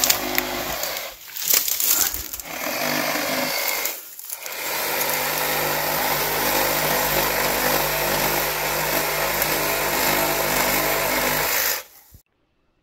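Small engine running steadily at high speed, dipping briefly twice in the first few seconds and stopping abruptly near the end.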